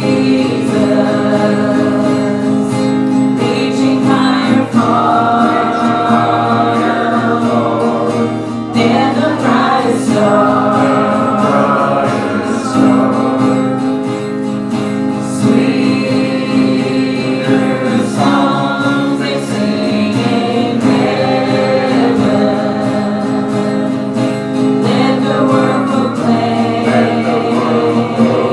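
Church congregation singing a hymn together in phrases a few seconds long, over a steady instrumental accompaniment.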